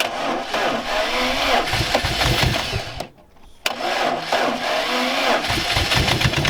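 2007 Lada Priora's 16-valve petrol engine starting and running. It breaks off briefly about three seconds in, then runs again. The engine is one its owners call knocking.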